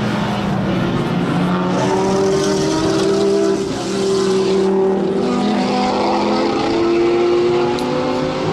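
A sport compact race car's engine accelerating hard, the pitch climbing and dropping back at each of several quick upshifts.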